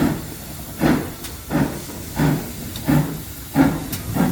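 Steam locomotive pulling a train out of the station, its exhaust chuffing in a steady beat of about one and a half chuffs a second, each chuff a hissing blast of steam.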